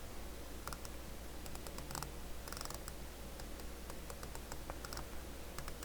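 Scattered faint clicks and scrapes of hands handling a CB radio on a workbench, over a low steady hum.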